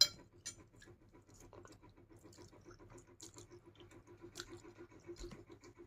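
Faint eating sounds, small clicks and chewing, over the steady pulsing hum of an electric fan, with one sharp click at the very start.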